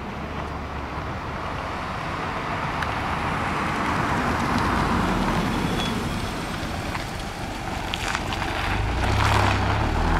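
Rally reconnaissance car driving past at low speed, its engine and tyre noise building to a peak about halfway and then fading. Engine noise swells again near the end and cuts off abruptly.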